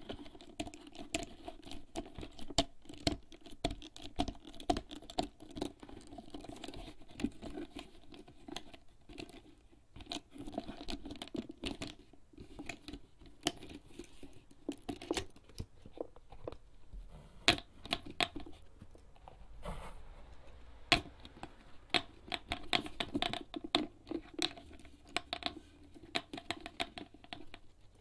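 Fingertips tapping quickly and irregularly on a HERZ leather bag, a dense run of small soft taps with a few sharper ones.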